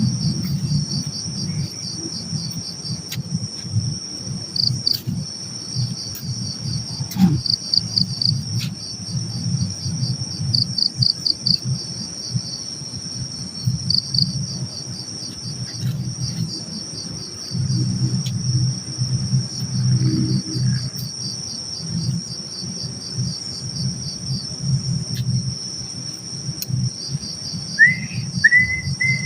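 Night insect chorus: crickets chirping steadily with a pulsing trill, over a low rumble. Near the end, three short rising whistle notes.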